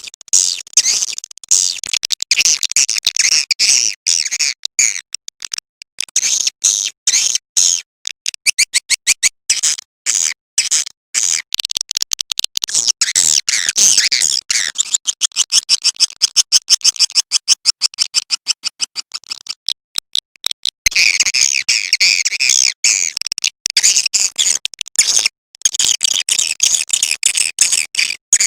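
Swiftlet calling sound: rapid, dense twittering chirps of swiftlets in quick runs with brief gaps, thickest in the last third. This is the lure call played in swiftlet houses to draw the birds in.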